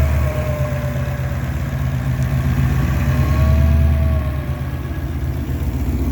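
The 2020 Shelby GT500's Whipple-supercharged 5.2-litre V8 idling through a Borla ATAK exhaust. It gives a steady, deep rumble whose level swells a little about three seconds in.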